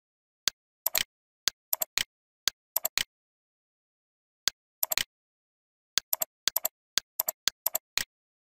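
Computer mouse clicking against dead silence: single sharp clicks about half a second apart, mixed with quick pairs and triplets of clicks.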